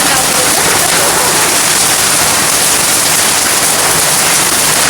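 Heavy rain pelting down, a dense, steady hiss.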